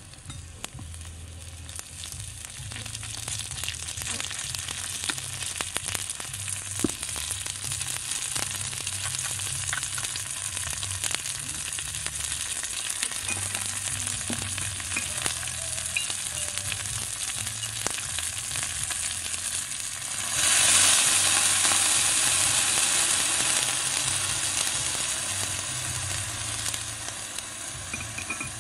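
Diced meat, chilies and vegetables sizzling and crackling in hot oil in a small wok, with many small pops. About two-thirds of the way through, a sudden louder hiss as liquid hits the hot pan, then it keeps sizzling and slowly settles.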